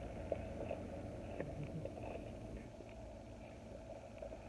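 Faint sounds of eating and handling food, a few small ticks, over a low steady hum.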